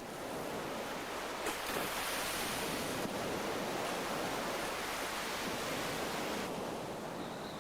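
Ocean waves breaking on a rocky shore: a steady rushing surf that swells about a second and a half in and eases off near the end.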